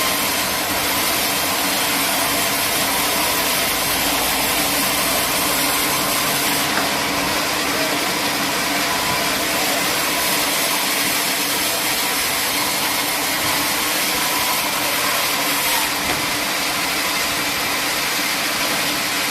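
Steady sawmill machinery running, a continuous loud mechanical hiss and hum with no letup.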